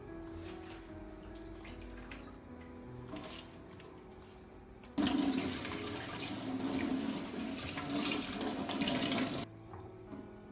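Tap turned on halfway through, water running hard into a kitchen sink for about four and a half seconds, then shut off suddenly. Soft background music before it.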